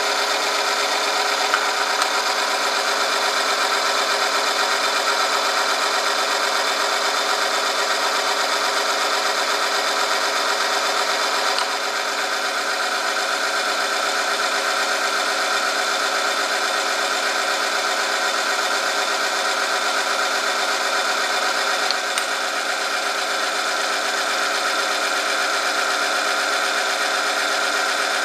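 Oil-film strength test machine running steadily: a motor-driven rotating shaft rubbing against a metal test sample lubricated with oil, giving a steady whine with several pitches. A few sharp clicks come near the start and about 22 seconds in, and the sound drops slightly in level about 12 seconds in.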